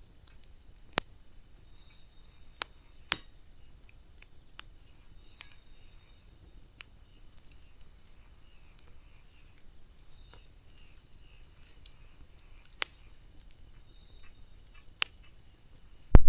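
Wood campfire crackling: sparse sharp pops and snaps a few seconds apart over a soft hiss, with a heavier thump right at the end.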